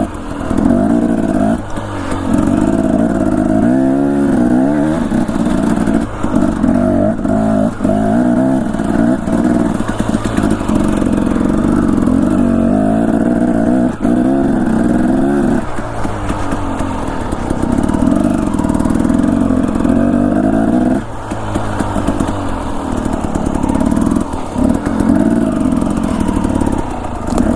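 Dirt bike engine running under constantly changing throttle, its pitch rising and falling, with short throttle-offs every few seconds.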